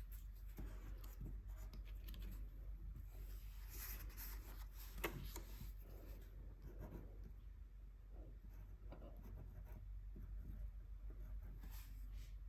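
Faint, irregular strokes of a paintbrush laying gouache paint onto paper, with a single sharp click about five seconds in.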